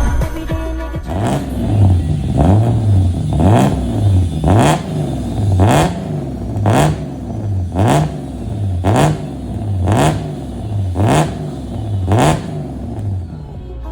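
BMW E36 engine revved through an aftermarket full exhaust system in quick repeated blips, about one a second. Each rev rises and falls sharply, with a short crack at its peak, eleven or so times in a row.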